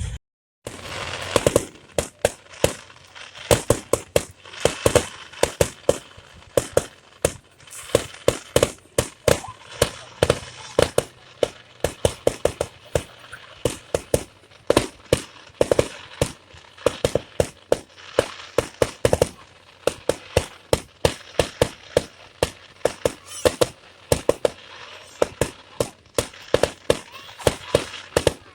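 Fireworks going off in a continuous barrage: sharp bangs and crackles, several a second, with no let-up.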